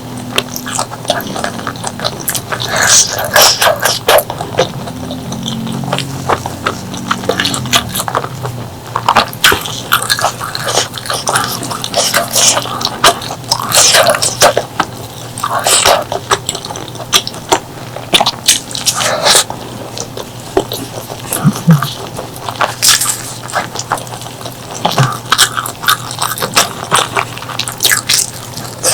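Close-miked eating sounds: wet chewing, lip smacks and mouth clicks from someone eating pork leg curry with rice, coming in irregular quick clusters with short pauses between.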